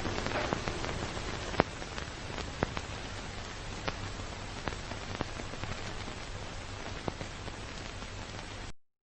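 Rain falling steadily, with scattered louder drops ticking out of the patter; it cuts off suddenly near the end.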